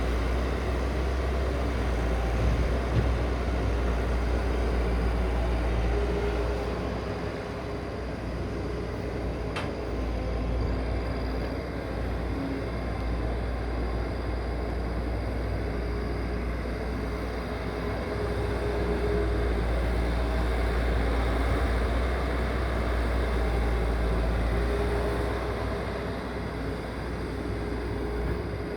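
Heavy machine's diesel engine running steadily, a deep rumble with faint tones that come and go above it; a single sharp click about ten seconds in.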